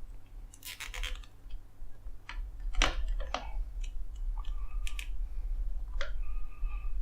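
Small plastic parts being handled while zip ties fasten bearing housings to linear bearings: a cluster of clicks and scrapes about a second in, then separate sharp clicks and a few faint squeaks spaced roughly half a second to a second apart.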